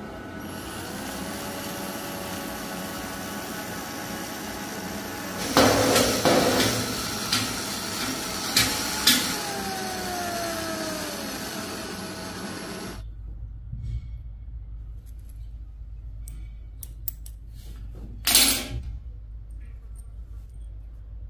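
A small motor-driven machine running steadily with knocks and rattles, then stopping suddenly about two-thirds of the way through; after that, scattered light clicks and one short loud scrape.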